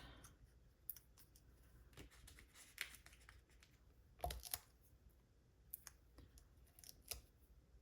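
Near silence broken by faint scattered clicks and light rustles of cardstock being handled on a craft table, with one louder tap a little over four seconds in.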